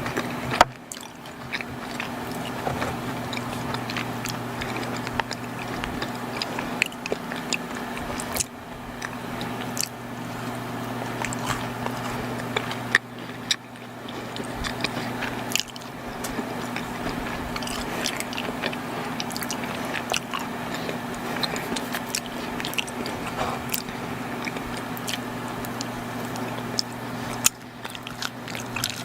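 Close-miked biting and chewing of soft, chewy chocolate baked goods, with many small mouth clicks and a few sharper bites. A steady low hum runs underneath.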